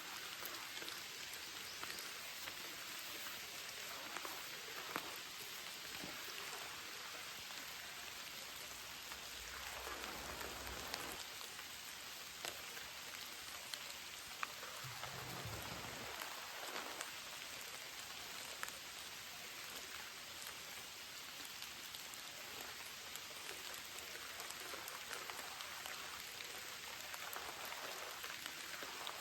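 Steady heavy rain, with scattered sharper drop hits ticking through it. Two brief low thuds come about ten and fifteen seconds in.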